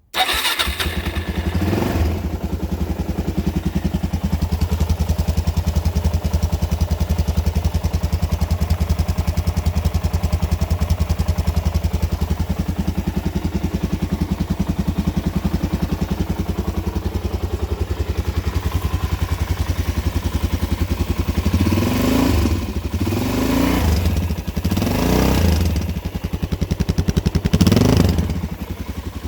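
A freshly rebuilt, all-stock Suzuki DRZ400 single-cylinder four-stroke engine starts at once and idles steadily. Near the end the throttle is blipped four times, each rev rising and falling back to idle.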